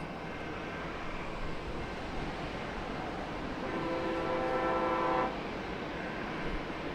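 Steady rumble of a departing airliner's jet engines, with a horn sounding one flat chord for under two seconds about halfway through.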